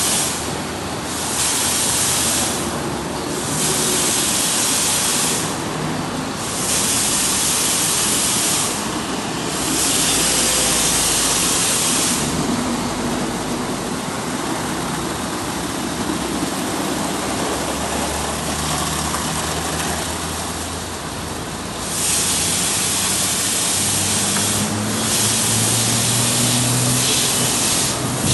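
Water spray hissing hard, broken off briefly again and again as the spray is stopped and restarted, with a low steady hum underneath.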